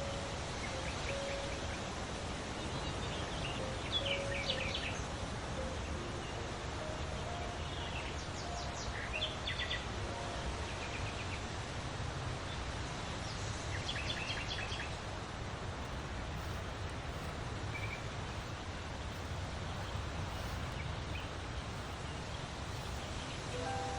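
Wild birds singing: several short, rapid trilled phrases, with scattered short lower notes, over a steady outdoor hiss.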